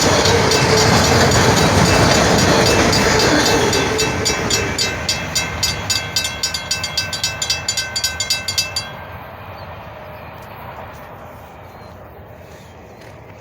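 A short train running past a grade crossing: loud wheel-and-rail rumble that fades from about four seconds in. Over it the crossing bell dings quickly, about four strokes a second, until it cuts off suddenly near the middle.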